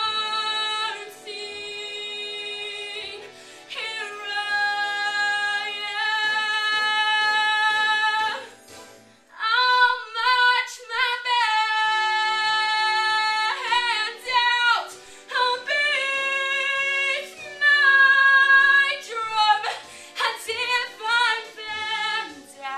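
A solo female voice singing a show tune, with long held notes and a short pause about nine seconds in, over faint accompaniment.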